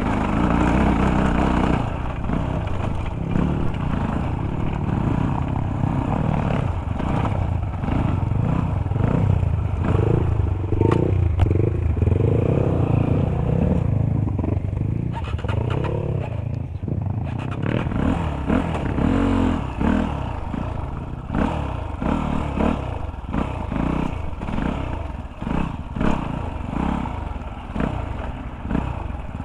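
Dirt bike engine running and revving up and down over rough, rocky ground, with clattering and rattling from the bike as it goes.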